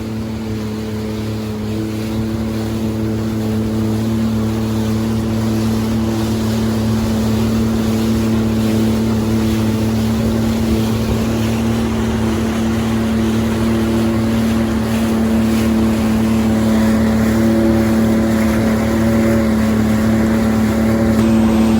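Engine of a Yamaha VX Cruiser waverunner running steadily with a constant hum under water and wind noise, slowly getting louder through the stretch.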